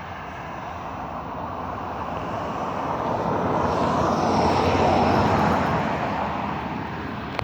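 A road vehicle passing by: a steady rush of engine and tyre noise that swells to a peak about five seconds in and then fades.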